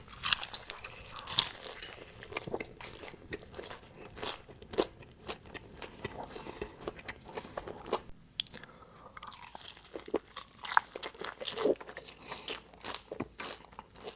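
Close-up eating sounds: bites crunching through crispy fried chicken coating, then chewing, with irregular crackles and smacks.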